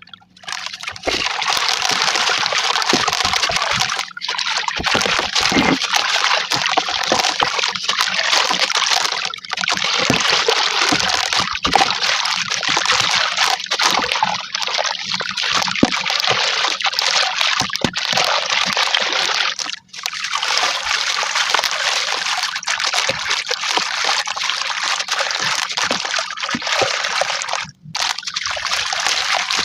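Charcoal chunks and brick pieces being crumbled wet in water, sped up to double speed: a dense, continuous gritty crackling with trickling and sloshing water, broken by brief pauses a few times.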